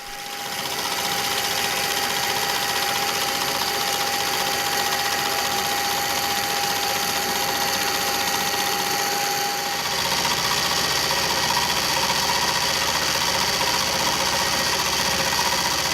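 Milling machine running as it trims a steel vice jaw to size: a steady machine drone with the cutter working the steel. Its tone shifts slightly higher and a little louder about ten seconds in.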